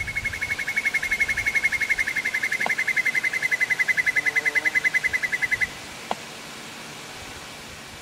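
A bird's long, fast trill of evenly repeated notes that stops abruptly after about six seconds, with a few faint clicks over a soft outdoor hiss.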